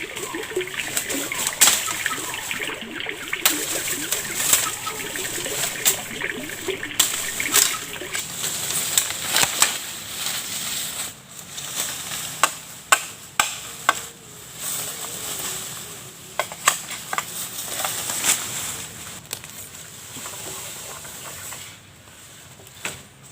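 Water splashing and sloshing, with many irregular sharp clicks and knocks.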